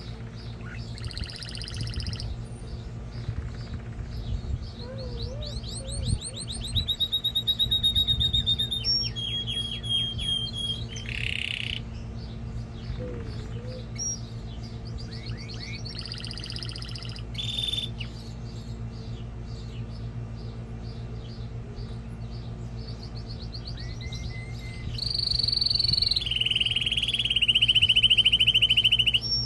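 Male canary singing: a long song of fast trills and rolls of rapidly repeated notes, loudest in a burst near the end. A steady low hum runs underneath.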